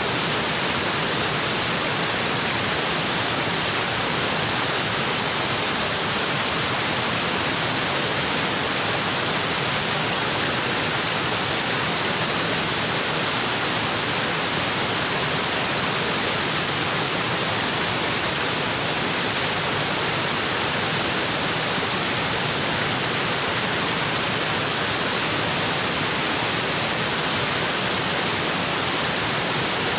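Waterfall in a tropical forest: water falling onto rocks in a steady, unbroken rush.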